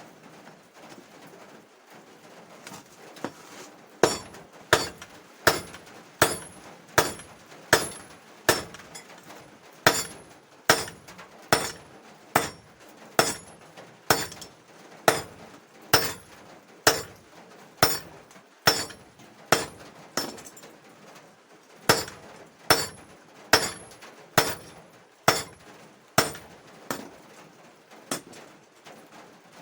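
Blacksmith's hand hammer striking steel on an anvil while forging, in a steady rhythm of about one blow every 0.8 s, each with a short high ring. The blows start about four seconds in and pause briefly about two-thirds of the way through.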